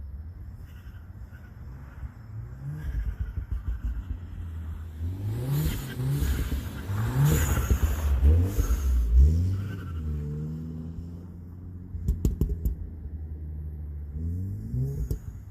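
Volkswagen Golf R's turbocharged four-cylinder, on an APR stage 2 pop-and-crackle tune, accelerating hard through quick DSG upshifts, its pitch climbing and dropping back with each shift, then falling off as the throttle is lifted. A quick string of sharp cracks follows about twelve seconds in. Under acceleration the owner hears turbo flutter, which he blames on a blow-off valve that is not working properly.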